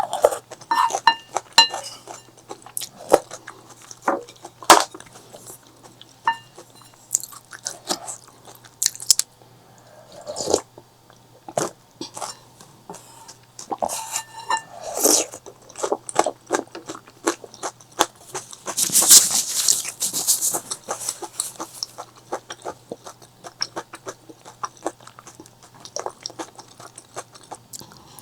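Close-miked eating: bites and chewing of crunchy food, with many sharp wet clicks and crunches. A louder rushing burst lasting over a second comes about two-thirds of the way in.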